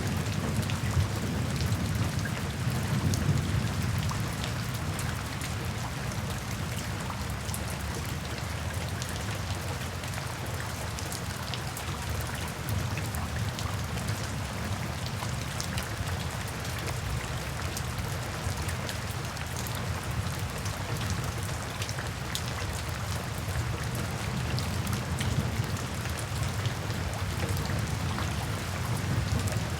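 Steady heavy rain, with many individual drops striking a surface. A low rumble of thunder fades out over the first few seconds and swells again near the end.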